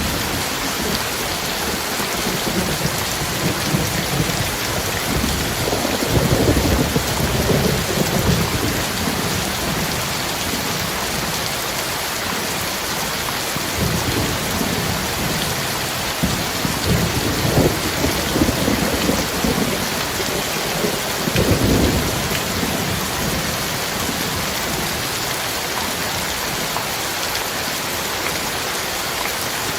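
Heavy rain falling steadily in a thunderstorm, with rolling thunder rumbles swelling up about six seconds in and again around the middle of the stretch.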